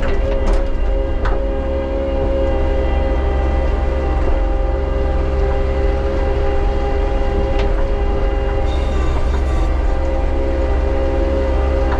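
Bobcat T77 compact track loader running steadily, a constant engine drone with a steady whine over it, with a couple of sharp clicks near the start.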